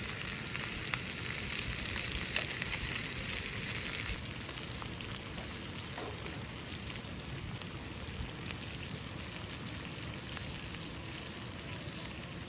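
Food sizzling in hot fat: a dense crackling hiss that drops suddenly to a quieter, steadier sizzle about four seconds in.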